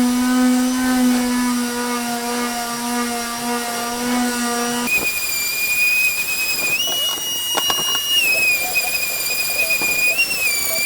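Electric sander motor running with a steady hum. About five seconds in it cuts abruptly to a high-pitched whine, which rises for a moment a couple of seconds later and wavers near the end, with a few light clicks.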